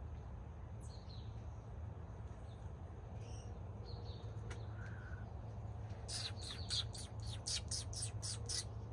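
Small bird calling: a few scattered short chirps, then about six seconds in a fast run of sharp, high chirps, roughly four to five a second. A steady low hum runs underneath.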